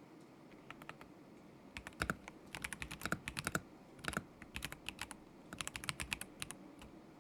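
Typing on a KZZI K75 Pro mechanical keyboard with Moment linear switches: a few taps about a second in, then quick bursts of keystrokes with short pauses, stopping shortly before the end.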